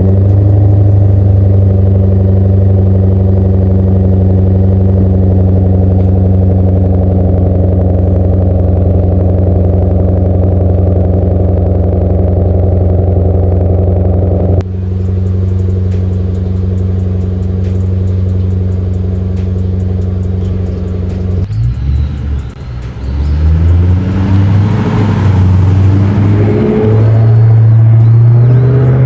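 Late 30-series Toyota Celsior V8 through a one-off exhaust with a straight centre pipe and a looped rear muffler. The engine holds a steady note for a long stretch, drops slightly about halfway, then swings up and down in pitch and climbs as it revs and accelerates near the end.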